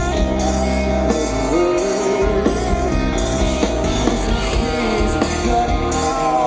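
A live rock band playing a song, with electric guitars over steady bass.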